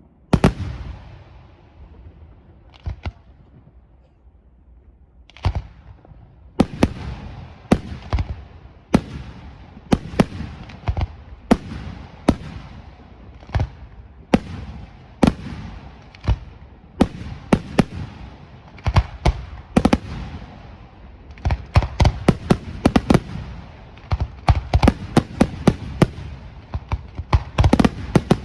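Aerial firework shells bursting in a long series of loud, sharp bangs with echoing tails. A few scattered reports open it, a steady run of bangs follows, and near the end they crowd into a rapid volley.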